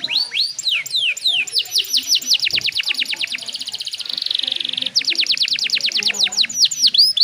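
Domestic canary singing: a fast run of repeated downward-sweeping whistled notes, a buzzy rolled trill about four seconds in, then more rapid down-sweeps.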